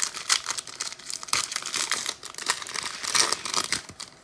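Crinkling and rustling of plastic card packaging as trading cards are handled, in a string of short, irregular crackles.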